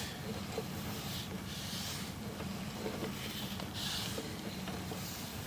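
Sewer inspection camera rig: a steady low electrical hum with soft swishes of hiss every second or so, as the push cable is fed down the line.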